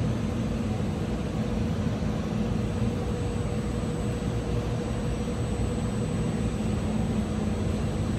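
Saw blade laser cutting machine running: a steady machine hum with a thin, high, constant whine above it.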